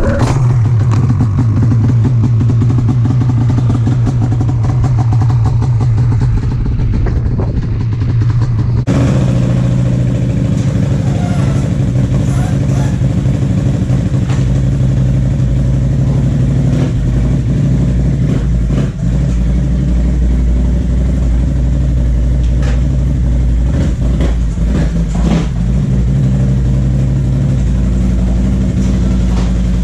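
Polaris Assault snowmobile's two-stroke engine running steadily just after being pull-started. The sound shifts about nine seconds in.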